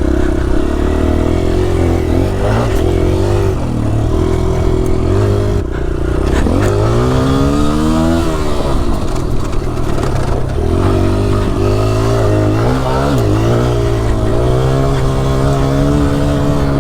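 Dirt bike engine revving hard as it is ridden round a motocross track, its pitch climbing and dropping again and again through the throttle and gear changes, with a long climb and fall about two thirds of the way through.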